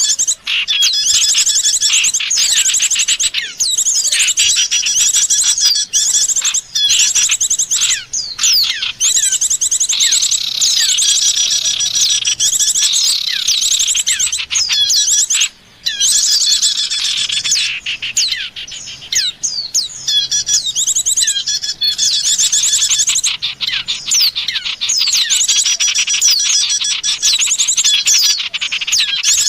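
Bird-luring call recording: dense, continuous chirping and rapid trilling of small songbirds, many calls overlapping, with a short break about halfway through.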